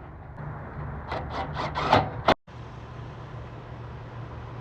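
A quick run of scraping strokes, metal rubbing on the blower motor's freshly polished shaft, over a steady low hum. The sound cuts off suddenly just past halfway, leaving only the hum.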